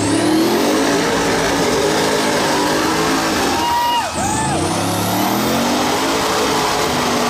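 Off-road vehicle engine revving hard under load, its pitch climbing and falling. About four seconds in the engine note dips briefly and a short arching whine is heard.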